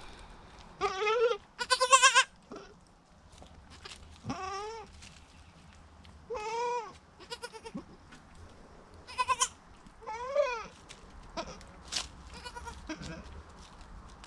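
Goats bleating: about six wavering bleats spaced out over several seconds, the loudest two close together about a second in.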